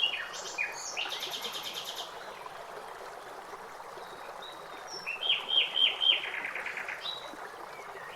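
Songbirds singing: short high chirps, a fast trill about a second in, and a run of four or five downslurred notes ending in a trill between five and seven seconds in, over a steady background hiss.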